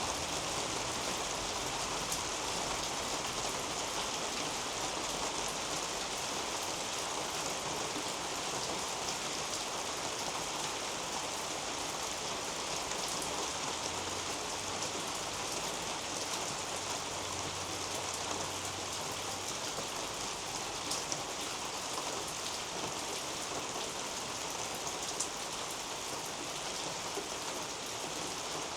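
Steady rain falling on garden leaves and a roof overhead, with two sharper drop hits in the second half.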